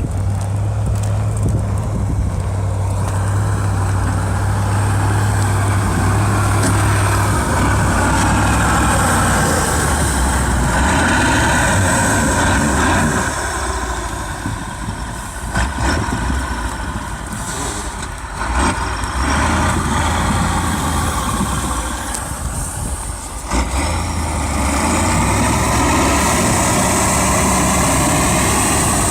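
A heavy truck's engine running with a steady low drone. Its pitch steps down about seven seconds in, and it eases off through the middle with a few short knocks before picking up again.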